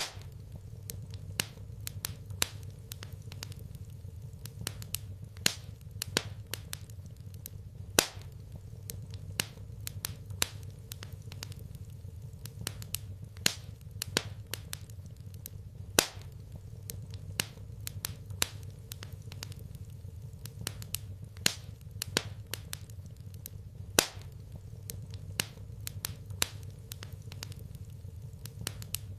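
Wood fire crackling in a fireplace: irregular sharp snaps and pops over a low steady hum, with the loudest pops about eight seconds apart.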